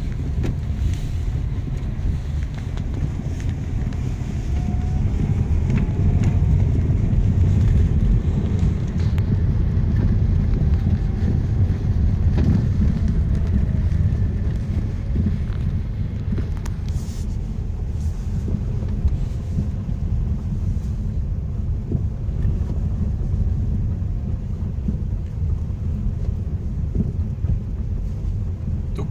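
Steady low road rumble from a new Lada Vesta Cross driving over a rough road, heard inside the car, with faint occasional knocks from the suspension. The knocking and crunching is the fault the owner is complaining about on the new car.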